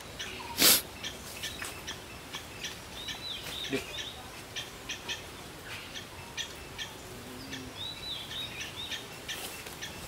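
Birds chirping and twittering, with many short high chirps and two brief warbled phrases about three and eight seconds in. A single short, loud noisy burst comes just under a second in.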